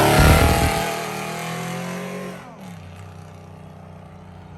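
A car accelerating hard away, its engine note loud at first and fading into the distance, with the pitch dropping about two and a half seconds in; a quieter steady engine hum remains.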